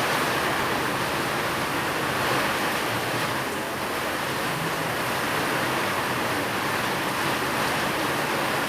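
Steady rain falling, a continuous even hiss with no drops or thunder standing out.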